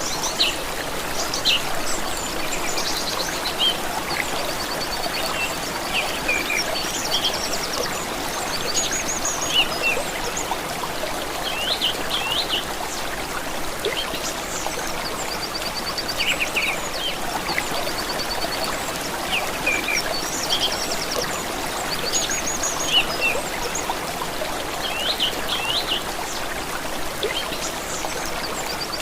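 A stream of water running steadily, with songbirds calling over it: short, rapid high trills and quick chirps come and go throughout.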